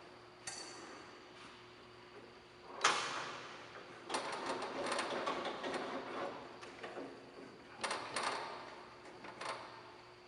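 Clunks and a rattling stretch of metal parts being handled and moved on an SCMI SL 12 sliding table saw with its blade not running, the loudest knock about three seconds in, over a faint steady hum.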